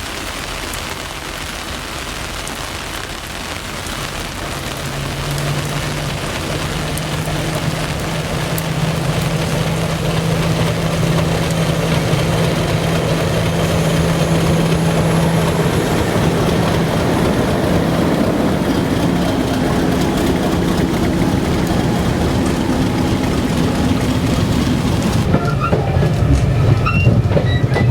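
A train on a heritage railway line, growing louder over the first ten seconds and then running steadily, with a low steady hum through the middle and clicks near the end.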